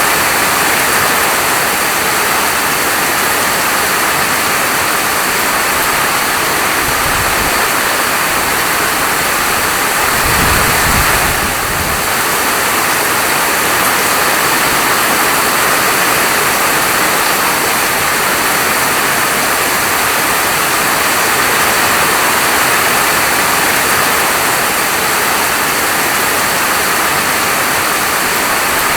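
Heavy rain falling steadily: a dense, even hiss. There is a brief low rumble about ten seconds in.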